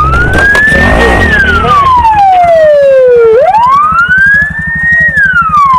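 Police car siren wailing, its pitch rising slowly, holding briefly at the top and falling again, about once every three and a half seconds. A low rumble runs under it for the first two seconds.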